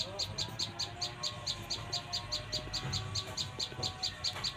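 Birds calling: a steady run of quick high chirps, about five or six a second, with lower, wavering calls underneath.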